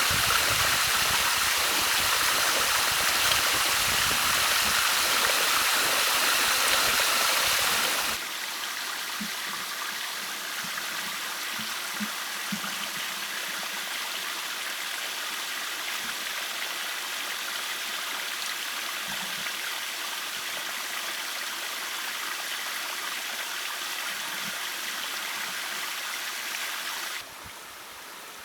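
Stream water flowing with a steady rushing noise. It is louder for about the first eight seconds, drops abruptly to a softer rush, and drops again shortly before the end.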